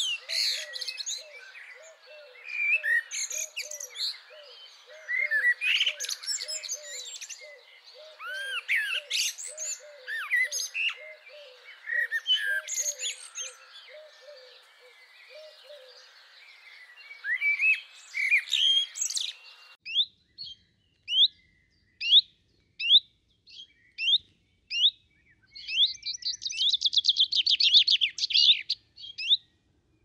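Several birds singing and calling together, with chirps and whistles over a low call repeated about twice a second. About two-thirds of the way in the sound cuts off abruptly to one bird giving short sharp chirps about twice a second, then a buzzy trill near the end.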